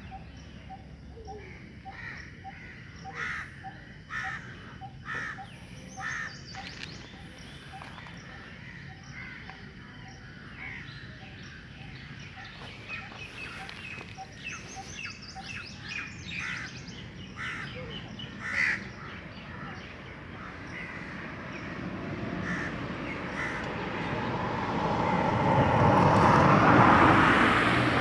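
Wild birds calling outdoors: short harsh calls over a steady, evenly repeated note about one and a half times a second. Toward the end a rush of noise swells up and becomes the loudest sound.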